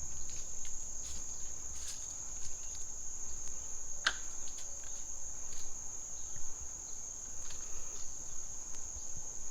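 Steady high-pitched drone of insects singing in the forest, one continuous unbroken tone. Faint scattered ticks, and one brief sharp sound about four seconds in.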